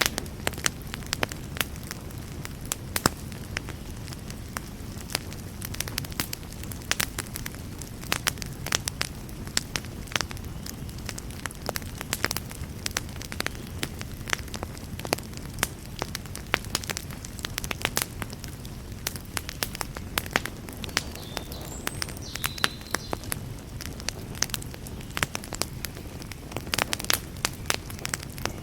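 Wood fire burning in a fireplace: dense, irregular crackles and sharp pops over a steady low rumble of flame.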